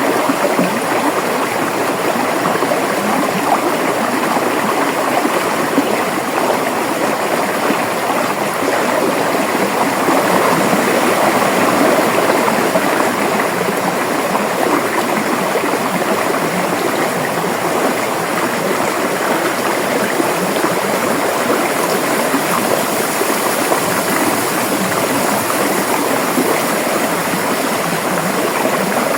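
River water flowing and rushing over rocks: a steady, even splashing and gurgling.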